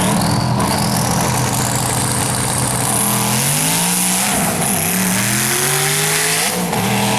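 Twin-turbo Coyote V8 Mustang at full throttle on a drag-strip pass. The engine note holds steady, then climbs about three seconds in, with sudden drops where it shifts gears, over a high whistle that rises in the first few seconds.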